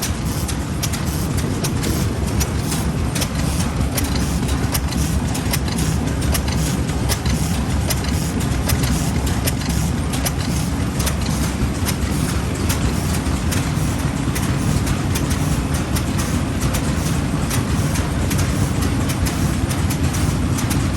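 Old stationary farm engines running steadily, with a rapid uneven train of exhaust beats and clatter over a low-pitched rumble.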